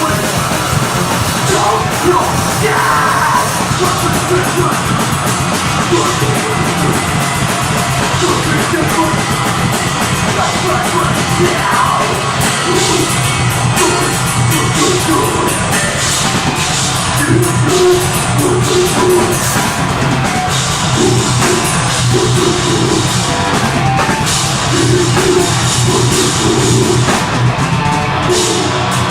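Deathgrind band playing live at full volume: heavily distorted guitars and bass over fast, pounding drums, with harsh shouted vocals.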